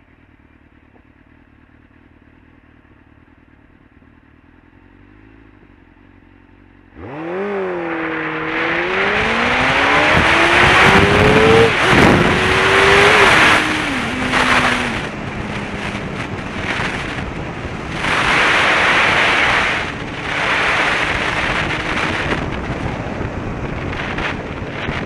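A 2003 Suzuki GSX-R600's inline-four engine idling quietly, then, about seven seconds in, launching hard: the revs climb and drop sharply at each of a few quick upshifts before settling into a steady cruise. Heavy, gusting wind noise on the microphone builds up with speed and drowns much of the engine.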